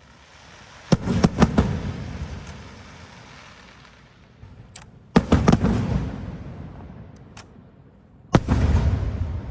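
Fireworks bursting in three volleys of several sharp bangs each: about a second in, about five seconds in, and near the end. Each volley is followed by a low rumble that dies away.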